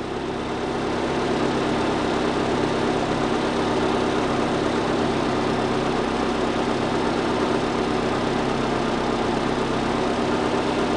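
Car engine idling steadily, a little louder over the first couple of seconds and then holding even.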